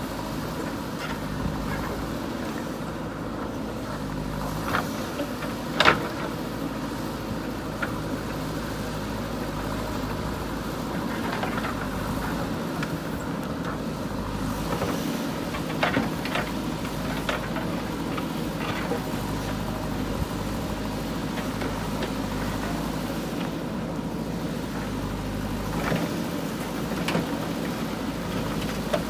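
JCB 3DX backhoe loader's four-cylinder diesel engine running steadily while it works. Scattered sharp knocks and clanks break through, the loudest about six seconds in.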